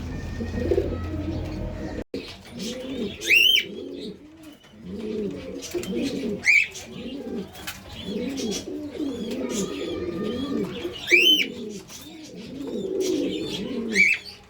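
Pigeons cooing over and over, with four loud, short whistled calls from another bird that rise and fall in pitch. A low steady hum underlies the first two seconds and cuts off suddenly.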